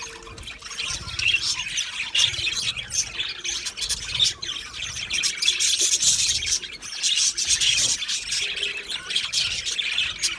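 A flock of budgerigars chattering and warbling, many high chirps and squawks overlapping without a break.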